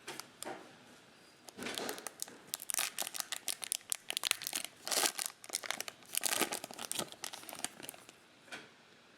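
Plastic trading-card pack wrappers being torn open and crinkled by hand: a run of quick, irregular crackles and rips.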